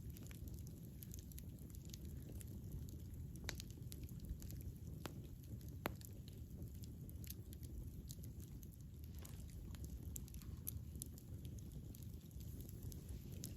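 Wood fire burning with a low steady rumble and irregular sharp crackles and pops, a few louder snaps standing out about 3.5, 5 and 6 seconds in.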